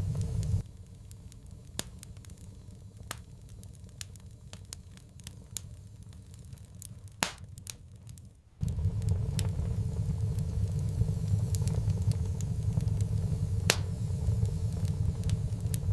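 Wood fire crackling, with scattered sharp pops and snaps. A low steady rumble runs underneath; it cuts out abruptly about half a second in and comes back just as suddenly a little past halfway.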